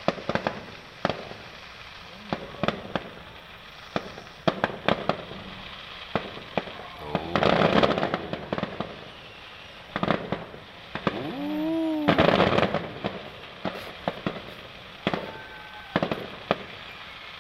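Fireworks going off in sharp, irregular bangs, with two longer, louder stretches of bursts about seven and eleven seconds in.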